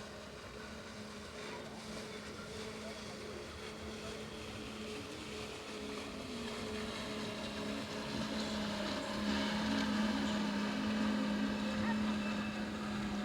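An engine running with a steady hum, growing louder over the span as it comes closer.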